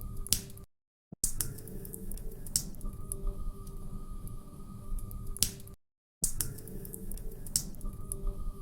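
Wood fire crackling in a fireplace: scattered sharp pops and snaps over a steady low rumble of burning logs. The sound cuts out to total silence twice, briefly, about a second in and about six seconds in.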